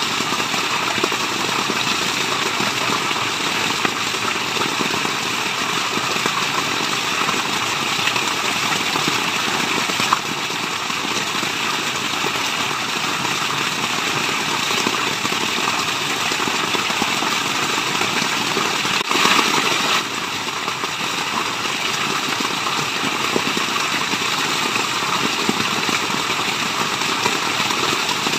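Waterfall: steady rushing of falling water, with a brief louder surge about two-thirds of the way through.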